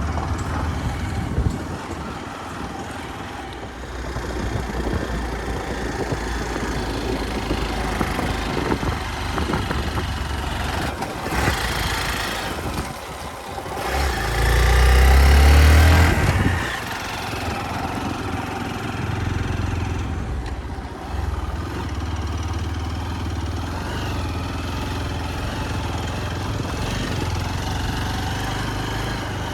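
Single-cylinder Hero Xpulse 200 motorcycle engine running while ridden over a rough track, with a rushing noise over it throughout. About halfway through, the engine revs up and gets much louder for a couple of seconds, then settles back.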